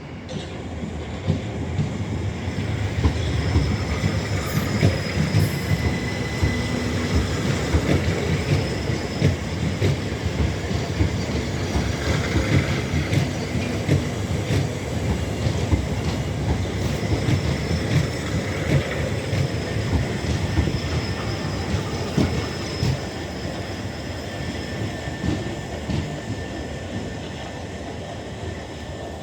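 An electric multiple-unit passenger train moves along a station platform: a steady rumble, wheels clicking over rail joints, and thin high wheel squeals. The sound builds over the first few seconds and eases off toward the end.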